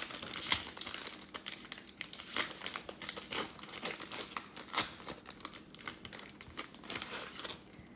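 Plastic wrapping on a box of football trading cards crinkling and tearing as it is unwrapped and the packs are ripped open, in many irregular crackles that stop near the end.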